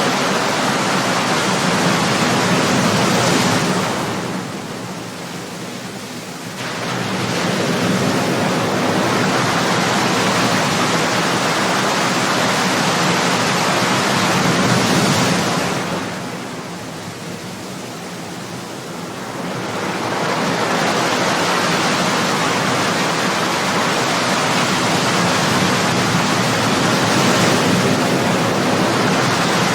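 Ocean surf breaking on a shore: a steady wash of waves that falls away twice into a quieter lull of a few seconds, then swells back up as the next waves break.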